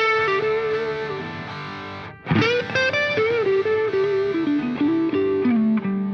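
Background music: a distorted electric guitar plays a slow melody with bent notes, a fresh chord struck about two seconds in, and ends on a long held low note.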